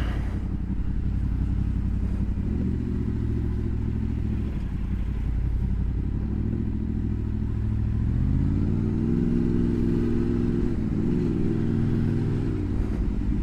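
Honda VFR's V4 motorcycle engine running under way over a steady low rumble. The revs pick up about two seconds in and ease back, then climb again at about eight seconds in, hold, and fall away near the end.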